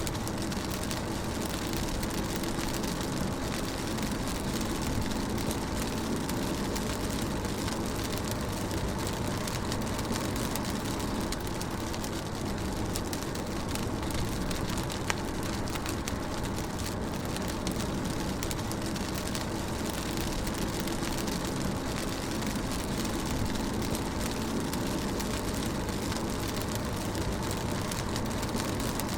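Rain falling on a moving car, heard from inside the cabin: a steady wash of rain over the low, even noise of the car driving along.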